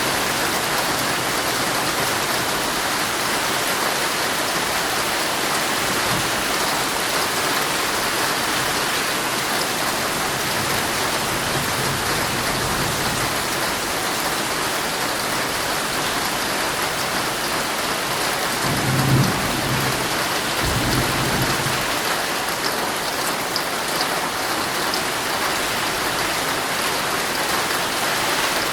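Heavy rain pattering steadily on a tent's fabric, with low rolls of thunder: a faint one around ten seconds in and a louder one starting about two-thirds of the way through and lasting a few seconds.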